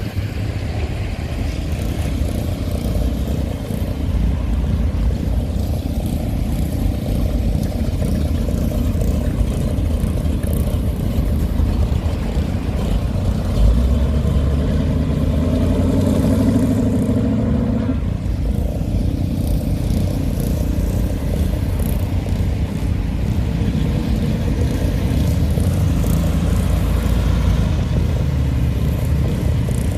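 Hot rod and classic car engines rumbling as cars drive past at low speed, with one louder pass about halfway through.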